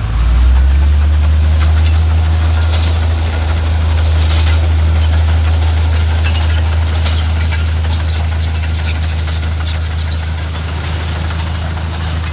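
Bulldozer's diesel engine running steadily with a deep drone, with scattered metallic clanks and rattles throughout.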